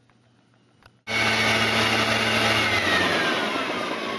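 Backpack leaf blower running loud, starting suddenly about a second in; its whine then falls steadily in pitch as the engine and fan slow a little.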